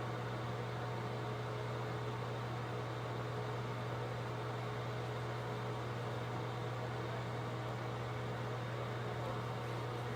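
A steady, unchanging low hum with an even hiss over it, as from a running machine or fan.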